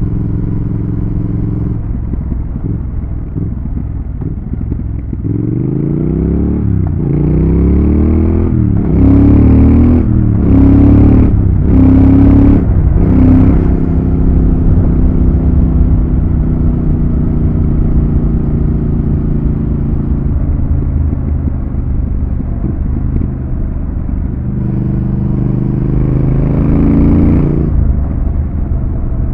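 Triumph Thruxton RS 1200 cc parallel-twin engine on the move: after a steady stretch, revs climb and drop back about five times in quick succession as the bike accelerates up through the gears, then hold steady at cruise, with one more rise and fall in revs near the end.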